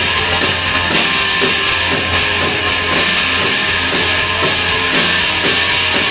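Rock band playing loud: distorted electric guitars over drums keeping a steady beat of about two hits a second.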